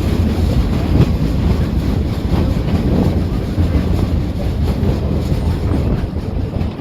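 Train running with a loud, steady heavy rumble and faint irregular knocks.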